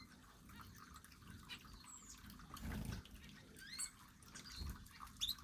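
Small aviary birds giving a few short, high chirps, over scattered faint ticks, with a soft low thump a little past halfway.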